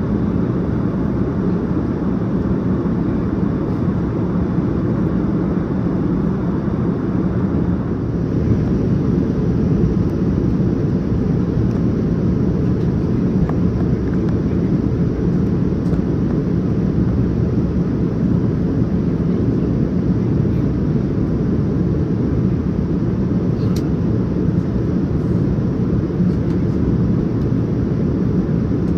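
Steady low rumble of jet engine and airflow noise heard inside the passenger cabin of a Boeing 787-9 Dreamliner.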